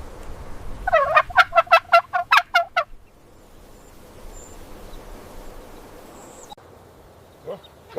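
A bird giving a rapid, even run of about ten loud calls over two seconds, followed by quiet background.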